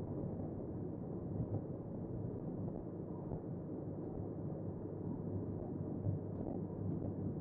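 2012 Camaro SS's 6.2-litre V8, fitted with long-tube headers and a Dynomax cat-back exhaust with X-pipe and Race Bullet mufflers, running at a steady cruise, heard inside the cabin as a low, even drone mixed with road noise.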